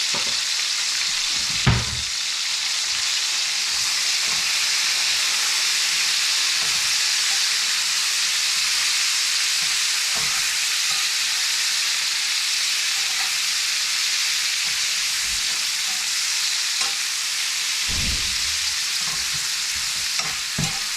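Sliced squash and onions frying in oil in a pan, a steady sizzle. A single sharp knock about two seconds in and a few low thumps near the end.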